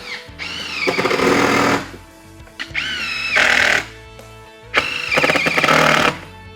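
Power drill driving long screws in several bursts, each a second or so, the motor winding up in pitch and then running steady, over background music.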